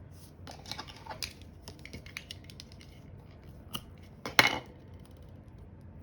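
Double-sided tape being laid on cardstock cards: small clicks and paper rustles, then one short, louder tearing scrape about four and a half seconds in.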